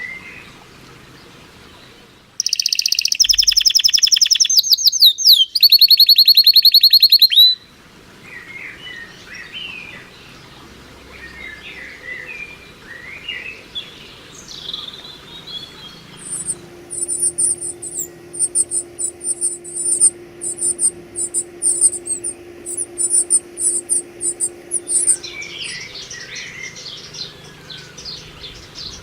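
Birds singing and calling. About two seconds in comes a loud, very rapid trill lasting about five seconds. Scattered short chirps follow, then a long fast run of very high repeated notes and more chirping near the end.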